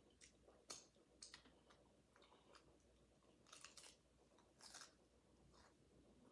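Faint crunching and chewing of a crisp hard taco shell, a handful of short sharp crunches with the longest ones around the middle.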